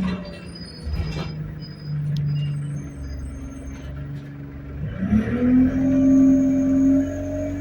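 ADL Enviro200 bus heard from inside, with a steady whine over the engine rumble whose pitch steps up sharply about five seconds in as the bus picks up speed. A couple of knocks sound in the first second or so.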